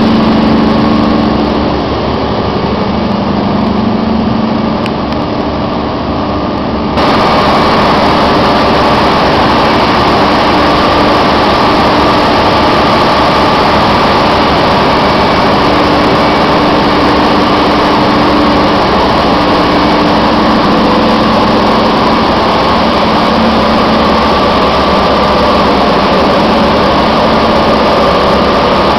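Biogas-fuelled engine running steadily at a constant speed. The sound suddenly becomes louder and fuller about seven seconds in.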